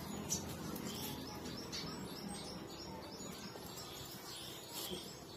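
Small birds chirping repeatedly in short, high notes, several a second.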